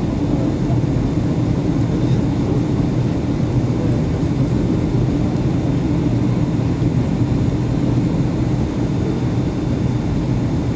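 Steady cabin noise inside a Boeing 757-200 in flight: a constant drone of engines and airflow with a low hum, unchanging throughout.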